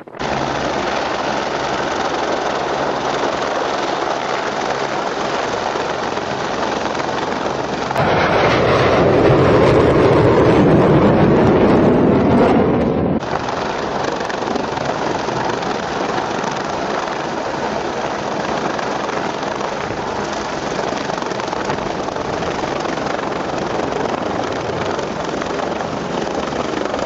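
Loud, steady vehicle noise, an even rushing sound with a faint low hum underneath. It gets louder for about five seconds in the middle and then drops back suddenly.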